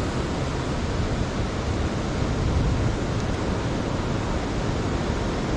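Steady, even rush of ocean surf and wind noise, with no distinct events.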